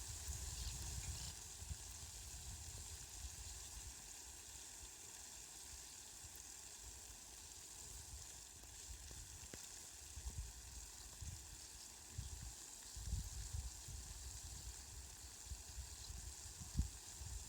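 Light rain falling steadily, an even, faint hiss. Low rumbles come and go under it, at the start, about ten seconds in, and again near the end.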